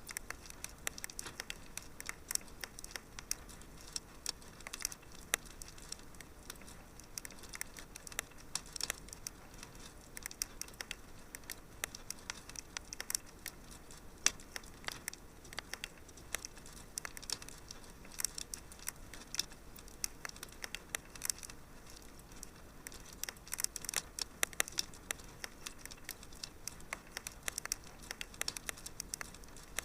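Wood fire crackling steadily in a fireplace: a constant stream of small sharp pops and snaps, irregular and dense, over a soft hiss, with no single loud pop standing out.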